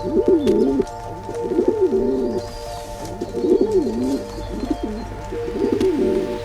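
Pigeon cooing in about five low, rolling phrases, over background music holding steady notes.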